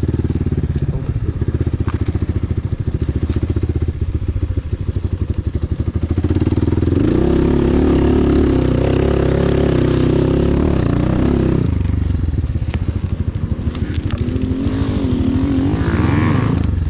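Enduro motorcycle engine running under throttle. It revs harder for several seconds in the middle, eases off, then picks up again near the end.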